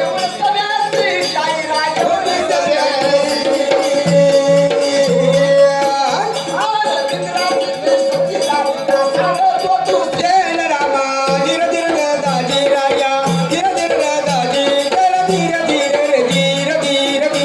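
Marathi folk music: a held drone note under a wavering melody, with regular hand-drum beats and a rattling percussion accompaniment.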